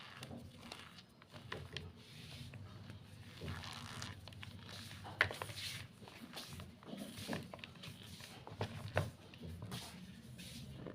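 Gym chalk being crushed, crumbling with irregular crunches and crackles and a sharper crack about five seconds in and again near nine seconds.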